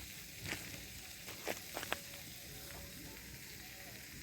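Skillet of Little Smokies sausages and vegetables frying in butter over a campfire, a faint steady sizzle, with a few short sharp clicks.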